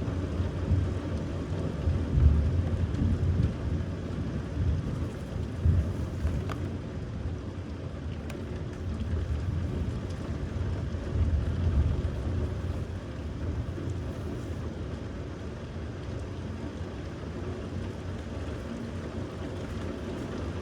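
Thunderstorm: rain falling with low rolling thunder, the rumbles swelling strongest about two seconds in and again around eleven seconds, then easing off.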